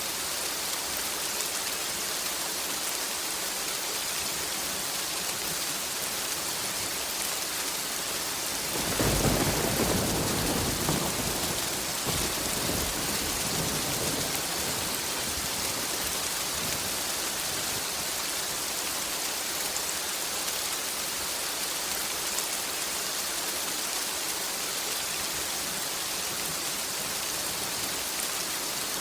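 Steady rain hiss with a roll of thunder about a third of the way in: a sudden low rumble that fades out over several seconds while the rain carries on.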